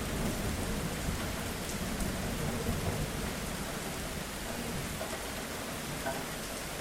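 Steady rain falling on a surface, with the low rumble of thunder dying away over the first few seconds.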